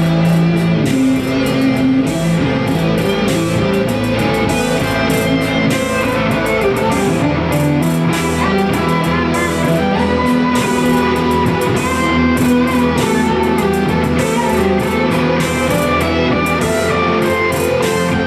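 Live band music led by electric guitar, loud and continuous; the deepest bass notes drop out about seven seconds in.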